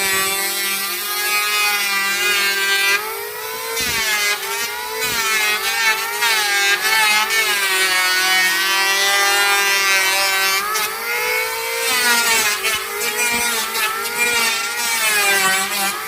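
Electric woodworking power tool cutting into a board, its motor note sagging and recovering several times as the load on the cut rises and eases.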